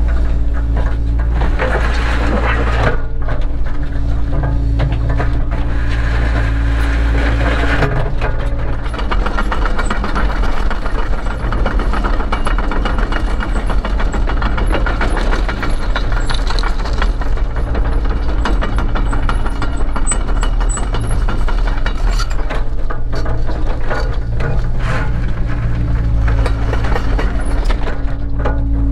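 Cat 307 excavator's diesel engine running steadily under work, with frequent rattles and knocks from the machine; its sound shifts about 3 seconds in and again about 8 seconds in.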